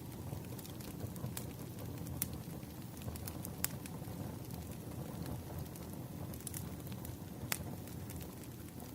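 Wood fire crackling: scattered sharp pops and snaps over a steady low rush.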